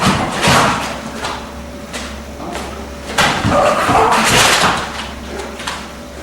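Punches smacking into a focus mitt in quick combinations, with the fighter's feet moving between strikes. A first flurry comes at the start, then a few single hits, and the loudest run of strikes comes about three seconds in.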